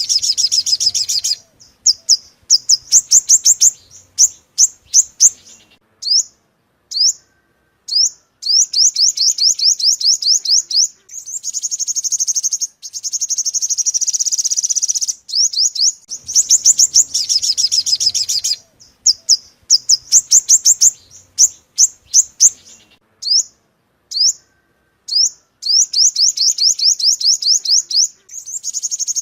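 Yellow-bellied sunbird ('five-colour' bird) song used as a lure call: rapid runs of high, quick falling chirps broken by short pauses, with a longer trill twice, the same phrase sequence repeating as a loop.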